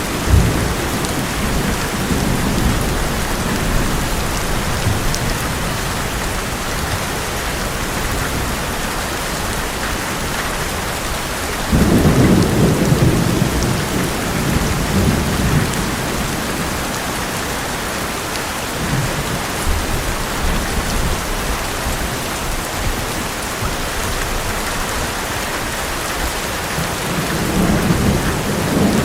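Heavy rain drumming steadily on an old metal roof, with thunder. There is a sharp crack just after the start, a sudden loud rumble about twelve seconds in that rolls on for a few seconds, and another rumble building near the end.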